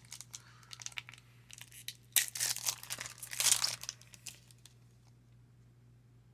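A baseball card pack wrapper being handled with crinkling, then torn open in two loud rips about two and three and a half seconds in.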